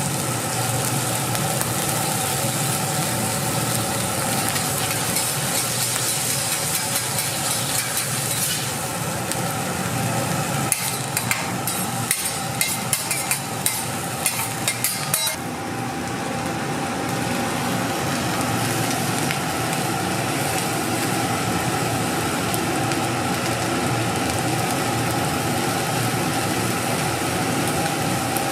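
Egg fried rice sizzling and being stirred in a hot pan, with a spatula clicking and scraping against the metal in a quick run about halfway through. After that the hiss drops and a steady machine hum from the burner or kitchen fan carries on.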